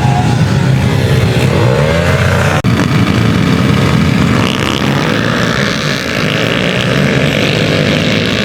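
Pit bike engines revving up and down as the small dirt bikes race around the track, the pitch rising and falling with the throttle. The sound breaks off for an instant about two and a half seconds in.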